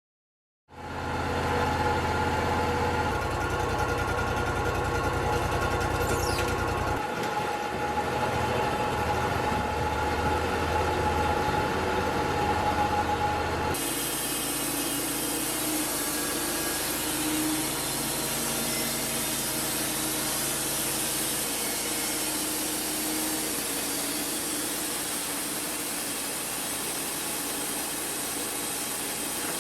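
Wood-Mizer LT35 portable band sawmill running steadily, its engine humming under the band blade as it saws cedar. The sound changes suddenly about fourteen seconds in, with less low rumble and more high hiss.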